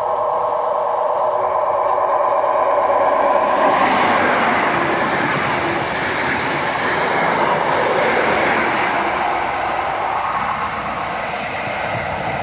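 Passenger train approaching with a steady whine, then a loud rushing noise as it speeds past about four seconds in. The noise lasts several seconds and eases slightly near the end as the train draws away.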